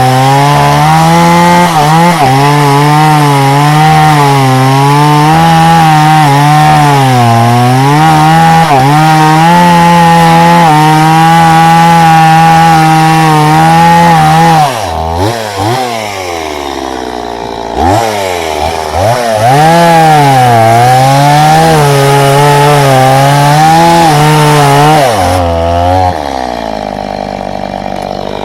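Chainsaw cutting through wood, the engine running at full throttle with its pitch wavering under the load of the cut. About halfway through it drops back and is blipped a few times, then cuts again at high revs, and near the end it falls to idle.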